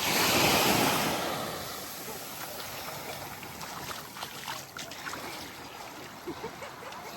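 A small wave breaking and washing up the sand, swelling to its loudest in the first second and fading over the next couple of seconds into quieter fizzing and lapping water.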